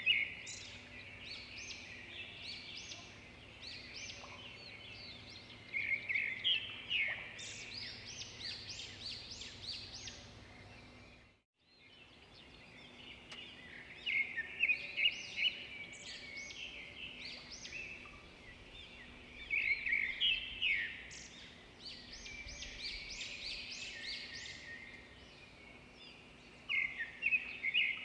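Swiftlet calls: bursts of rapid, high, twittering chirps that come in clusters every few seconds over a faint steady background. The sound cuts out completely for a moment about halfway through.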